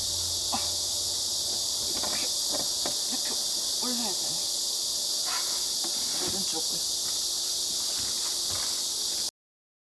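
Steady high-pitched chorus of chirping insects, with faint scattered small knocks and chirps beneath it. It cuts off abruptly near the end.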